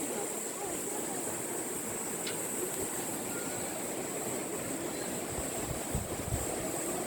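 Steady rushing outdoor ambience of a river canyon, water and wind, with a steady high-pitched hiss above it.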